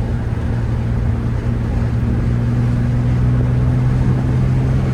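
Infiniti G35's V6 engine pulling steadily under way, its note rising slowly as the car gains speed, over low road noise.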